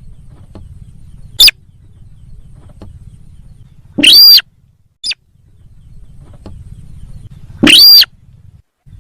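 Lure calls of the sintar sawah bird: loud, sharp calls a few seconds apart, a short one about a second and a half in and two longer calls that arch up and down, near the middle and near the end, over a low steady hum.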